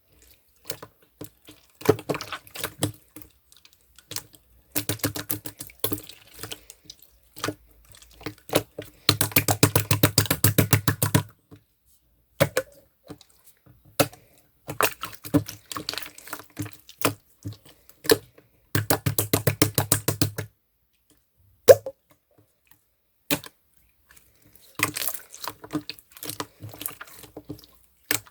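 Clear slime being squished and pressed by hand, making wet clicks and pops in irregular bursts, with two runs of fast clicking: one about a third of the way in and one about two thirds in.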